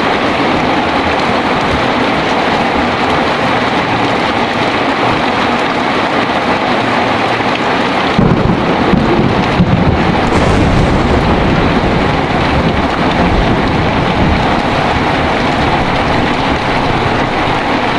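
Heavy rain pouring steadily. About eight seconds in, a deep roll of thunder breaks in and rumbles for several seconds before easing back under the rain.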